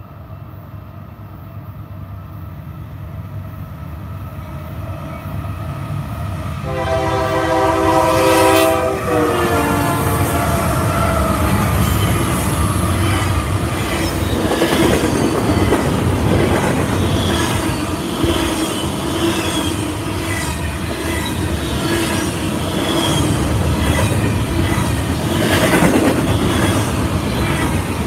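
Freight train approaching and passing close by: a rumble builds, then the locomotive's air horn sounds one chord for about two seconds, its pitch dropping as it goes past. After that comes the loud, steady rolling rumble and clatter of the wheels under double-stack container cars.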